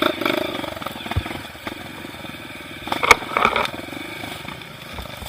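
Trail dirt bike engine running at low revs with a rapid, steady firing beat, and a single sharp knock about three seconds in.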